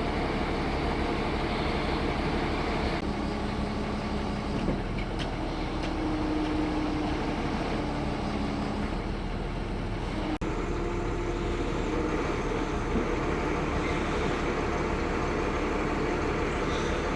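Scania P310 truck's 9-litre five-cylinder diesel engine idling steadily, with a brief dropout about ten seconds in.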